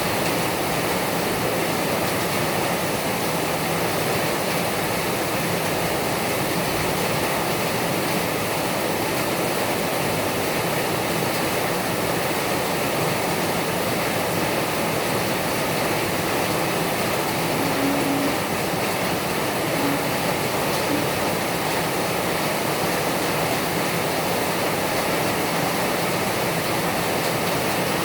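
Heavy rain falling hard and steadily, an even hiss that does not let up.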